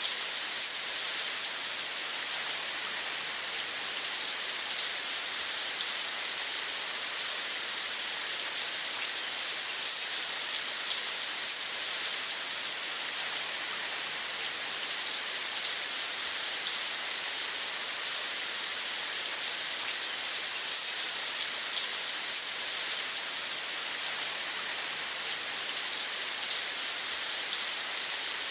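Steady rain, an even hiss of countless fine drops that neither builds nor breaks.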